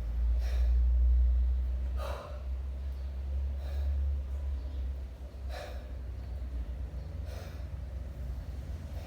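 Kettlebell lifter's sharp, forceful breaths, a gasp or puff about every two seconds in time with the reps, over a steady low rumble.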